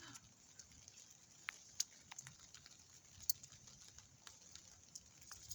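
Faint light rain: a low hiss with scattered sharp ticks of drops, a few standing out about one and a half, two and three and a half seconds in.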